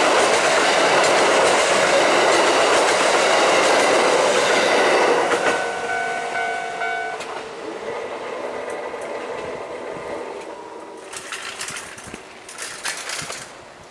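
Kintetsu Nagoya Line electric express train running past, loud at first, then dying away as the last cars clear, about five seconds in.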